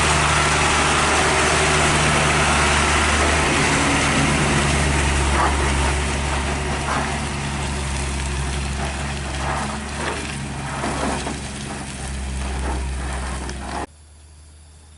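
Heavy tronton truck's diesel engine running loud and steady, with a wide rush of noise over it; it eases somewhat after about six seconds and cuts off suddenly near the end.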